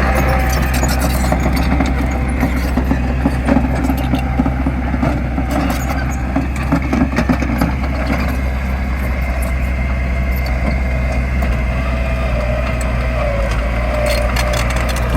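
Diesel engine of heavy earthmoving machinery running steadily, with scattered short clicks and knocks.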